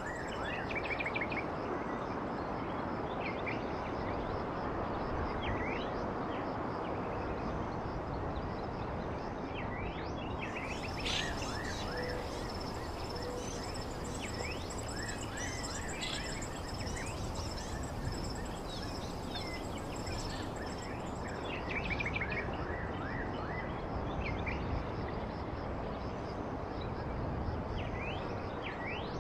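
Several small birds chirping in short, quick calls over a steady background hiss. A high, steady trill joins about a third of the way in and stops about two-thirds of the way through.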